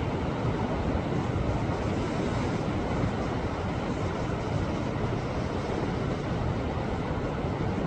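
Sea waves washing against a rocky shore: a steady, unbroken rushing wash, heaviest in the low end, with no single breaker standing out.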